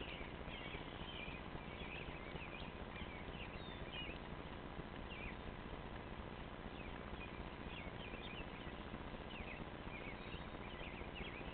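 Small birds chirping in short calls scattered throughout, over a steady background hiss.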